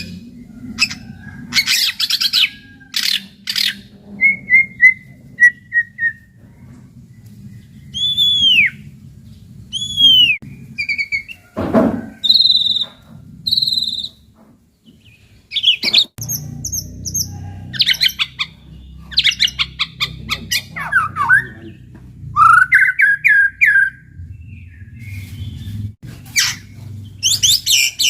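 White-rumped shama (murai batu) singing a varied song of loud whistled notes, arching slurs and fast rattling trills, delivered in separate phrases with short gaps, over a faint low rumble.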